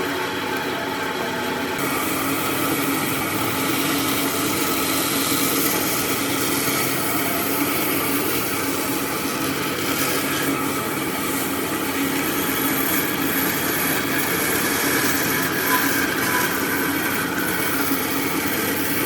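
A power tool working wood, running steadily with the continuous grinding noise of the tool biting into the wood.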